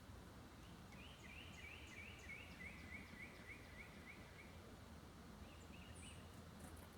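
A songbird singing a quick run of about a dozen repeated slurred notes, a little over three a second, stepping slightly down in pitch. A few short higher notes follow near the end, over a faint steady low hum.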